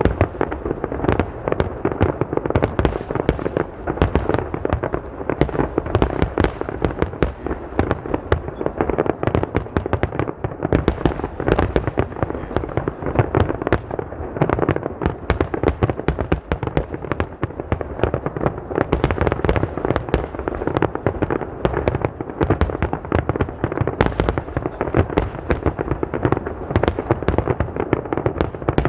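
Fireworks display: a dense, unbroken barrage of bursts and crackling shells going off many times a second over a continuous rumble of booms.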